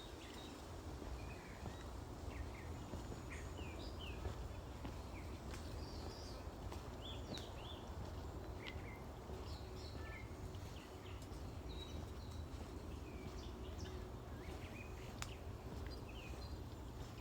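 Several birds chirping and calling in short, scattered notes, over a steady low background rumble.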